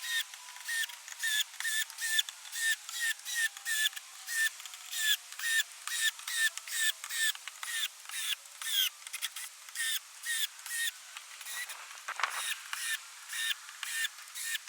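A hammer lightly tapping stainless deck screws into the decking one after another, an even run of short metallic pings about three a second.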